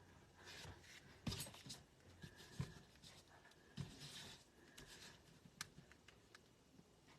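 Paper and cardstock being handled on a craft table: soft rustles of paper backing and a scattering of light taps and clicks.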